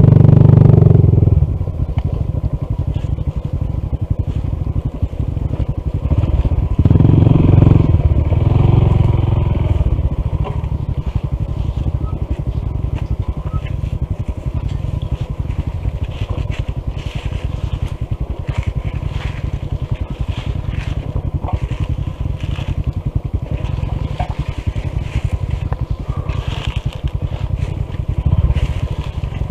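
Honda CT125's single-cylinder engine running at low revs on a rough dirt trail, with tyres crunching and scraping over gravel and leaves. It grows louder briefly about a second in, again around seven to ten seconds in, and near the end.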